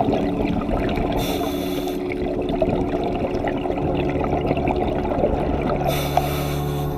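Underwater sound on a reef: a scuba diver's regulator breathing, with two hissing rushes of exhaled bubbles about a second in and near the end, over a steady crackle of reef clicks and a low hum.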